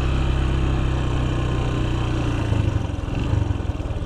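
Farm motorbike engine running steadily, then easing off about two and a half seconds in and settling to a pulsing idle.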